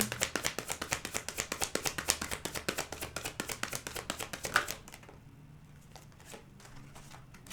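A deck of tarot cards being shuffled by hand: a fast run of card flicks and slaps for about five seconds that then stops, leaving a few faint taps.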